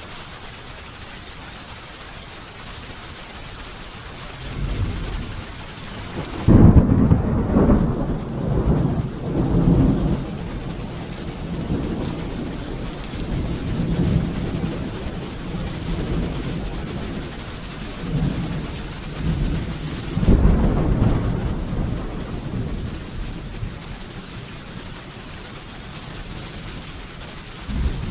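Steady rain with thunder. A low rumble builds about four seconds in, then a sharp loud clap breaks into rolling rumbles that come and go for several seconds; another peal rolls in about twenty seconds in, and a third starts right at the end.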